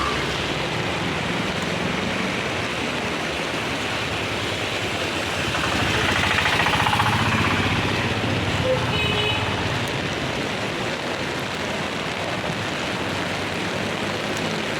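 Heavy monsoon rain falling steadily, with traffic hissing on the wet road; a vehicle swells past about six seconds in. A short, faint high beep comes near nine seconds.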